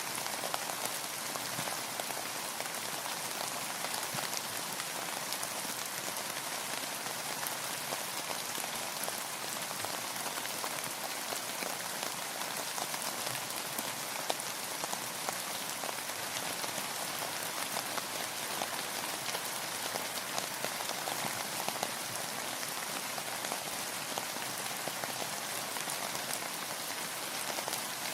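Steady rainfall: a dense, even hiss of rain with many individual drops ticking on a surface.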